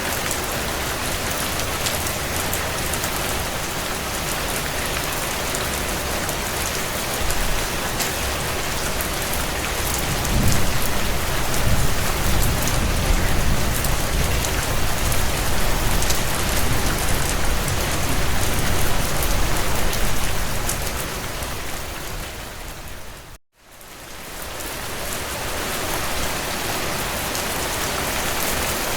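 Steady heavy rain on window glass, with small crackles from a wood fire. A low rumble rises about ten seconds in and fades away some ten seconds later. A little over twenty seconds in, the whole sound fades down to a brief silence and fades back up, as at a loop join.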